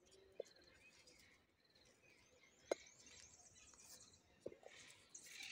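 Near silence: faint bird chirps and trills, with a few soft clicks.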